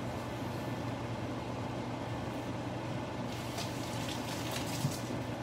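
Sliced onions and a block of frozen thin-sliced beef sizzling in oil in a nonstick pot, a steady hiss over a low steady hum, with a cluster of crackles and pops about three and a half to five seconds in.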